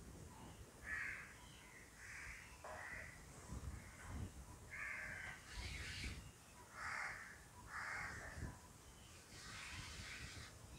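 Faint bird calls: a series of short harsh cries, each about half a second long, coming roughly once a second.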